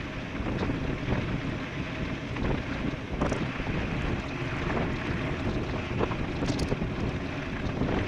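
Wind rushing over the microphone of a rider going fast downhill on an e-bike, with scattered small knocks from the bumpy surface.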